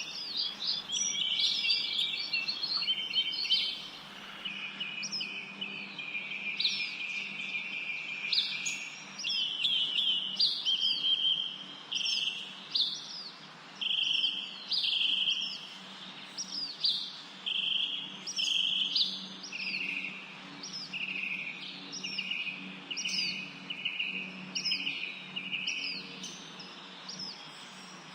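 Songbirds chirping and singing, a steady stream of short high chirps and trills repeating in quick phrases, over a faint steady low hum.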